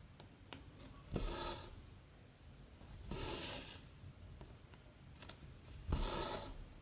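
Cotton embroidery thread drawn through cross-stitch fabric three times, each a short rasping pull that starts with a tick as the needle passes through.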